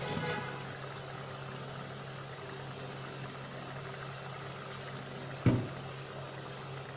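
Masala sizzling gently in an aluminium pot on the stove, under a steady low hum. A single sharp knock about five and a half seconds in.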